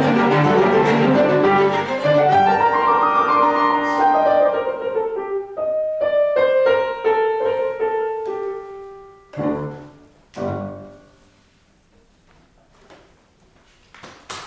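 Piano quartet (piano, violin, viola and cello) playing the quiet closing bars of a classical piece. The full ensemble gives way to a slowly descending melodic line, then two soft final chords about nine and ten seconds in ring away into near silence.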